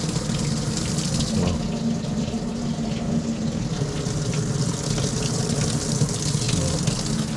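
Water running steadily through plumbing, a continuous rushing flow with a low hum under it.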